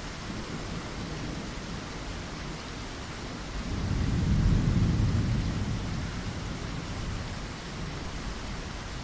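Steady rain hiss, with a low rumble of thunder that swells about four seconds in and fades away over the next two seconds.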